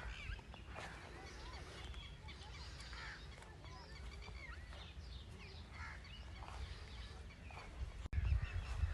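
Faint birdsong: many birds chirping and calling in short, scattered, rising and falling notes over a low background rumble, which grows louder near the end.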